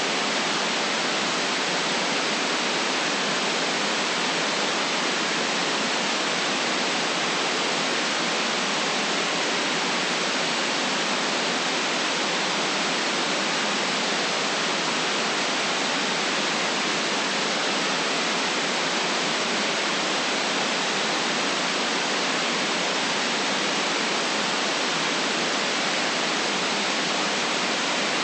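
Steady, unchanging white noise: an even hiss with little deep bass and nothing above the upper treble, with no breaks, tones or changes.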